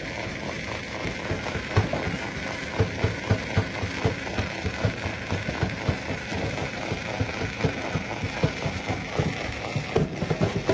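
Rock crusher running, with a steady mechanical whine under rapid, irregular knocks and cracks of stone being broken, which get busier after the first second or so.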